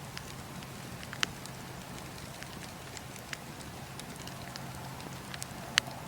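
Campfire burning with a steady low hiss and scattered sharp crackles and pops, the loudest about a second in and near the end.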